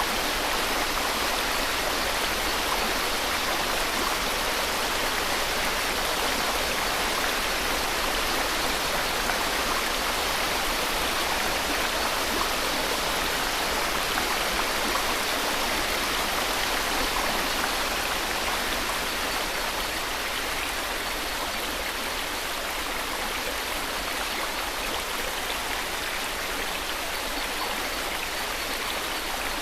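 A steady white-noise hiss, even and unbroken, like rushing water. It eases off slightly about two-thirds of the way through.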